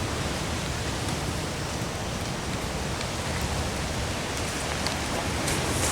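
Steady rain falling, an even hiss, with a few sharp drip ticks near the end.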